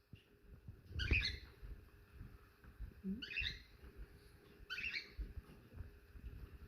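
Bird calling with short, high calls, three times, about every two seconds, over faint rustling.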